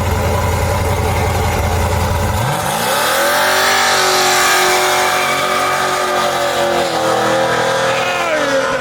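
Car engine idling with a deep rumble, then revved up about two and a half seconds in, held at high revs for about four seconds, and let fall back toward idle near the end.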